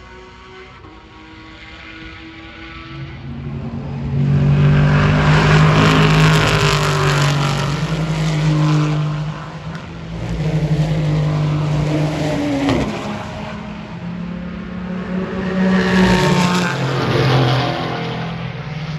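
Race cars passing at speed in succession: engines build up loud about four seconds in, with further passes around ten and sixteen seconds, and one engine note drops in pitch as a car goes by.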